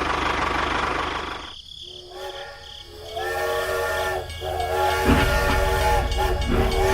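A small motor running with a steady noisy drone, which cuts off about one and a half seconds in. A multi-tone whistle-like horn then sounds in several long held blasts with short breaks, and a low rumble comes in under it about five seconds in.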